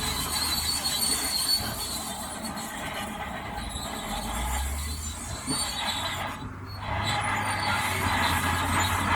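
Steel tracks of a Shantui DH17C2 crawler bulldozer squealing as it moves, over the steady run of its diesel engine. The squeal drops out briefly about six and a half seconds in, then returns.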